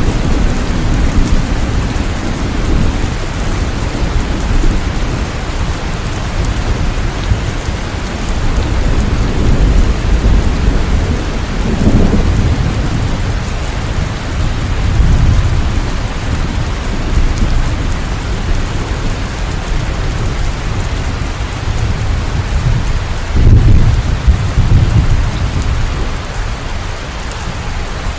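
Steady, loud rain falling, with low rumbles of thunder rolling under it several times. The heaviest roll comes near the end.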